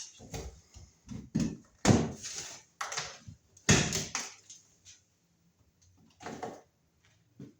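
Sheetrock being knocked and broken out of a wall: a series of irregular sharp knocks with crunching, the heaviest in the first half, then two more after a pause near the end.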